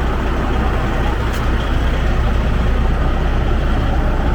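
A heavy engine idling steadily, an even low rumble, with a faint tick about a second and a half in.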